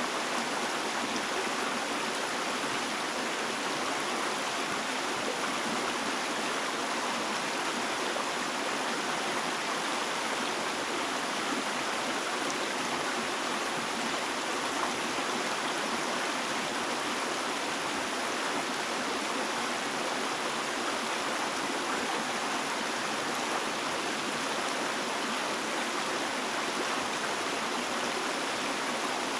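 Running water flowing steadily, an even rushing hiss that holds the same level throughout without a break.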